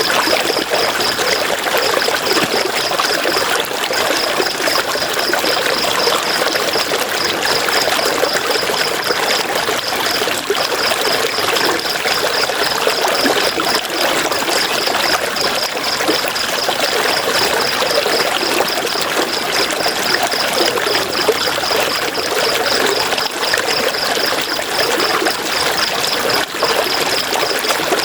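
River water flowing and trickling in a steady rush. A rapid, high-pitched pulsing runs through it on and off, with short gaps.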